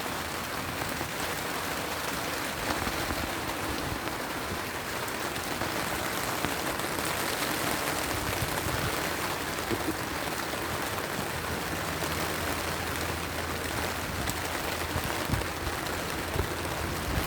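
Heavy rain pouring steadily, with a few sharp pops near the end.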